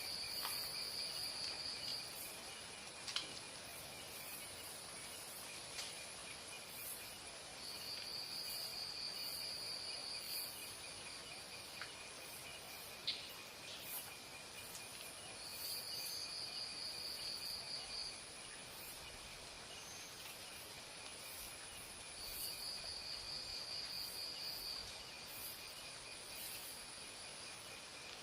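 Insects trilling: a steady high, pulsing chorus, with a louder high buzz that comes in for two or three seconds about every seven seconds, four times over. A few brief sharp calls stand out above it.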